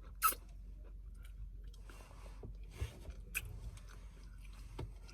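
Close-up chewing and mouth sounds from a person eating, with a few sharp clicks, the loudest just after the start.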